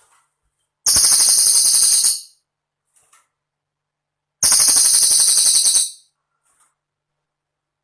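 Cililin bird singing: two high, fast, rattling trilled phrases of about a second and a half each, with a silent pause between them.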